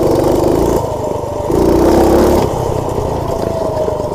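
Minibike's small single-cylinder Predator engine being ridden, revved up hard twice under throttle for about a second each, with steadier running between.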